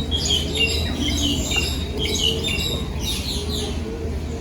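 Several small birds chirping and twittering, quick overlapping high-pitched chirps, over a low steady rumble.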